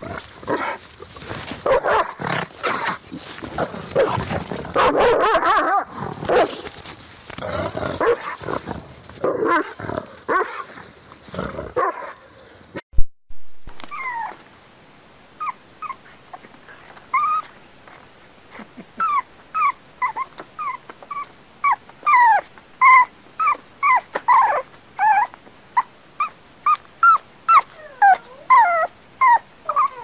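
A dense, rough animal sound that cuts off about 13 seconds in. After a short gap, a dog whimpers in a long run of short, high yips whose pitch bends up and down, growing more frequent and louder toward the end.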